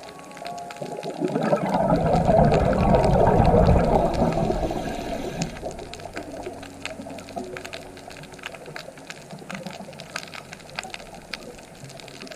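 A loud swell of rushing, bubbling water that builds about a second in and fades away after a few seconds, followed by quieter water noise with scattered small clicks. Faint music notes sound under it.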